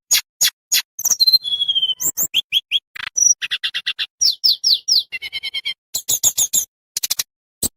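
Tledekan bambu songbird singing a fast, varied run of sharp chips, slurred high whistles and short trills, with brief pauses between phrases.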